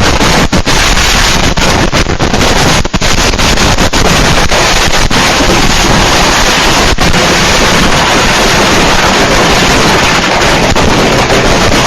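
Fireworks going off at very close range: a continuous, very loud hiss and crackle with many sharp cracks, so loud that it overloads the microphone into distortion.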